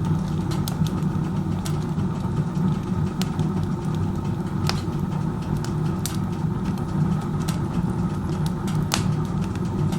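Wood stove burning with its door open: a steady low rush of strong chimney draft pulling air through the fire, with scattered sharp pops and crackles from the burning firewood. The draft is so strong that the fire burns inefficiently and the stove gives off little heat.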